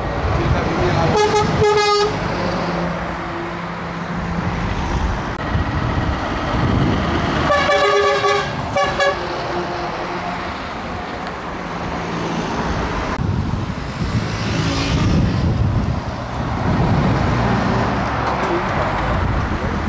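Truck horns sounding in short toots, a couple about a second in and a longer run of blasts about eight seconds in, over the steady running of passing truck engines.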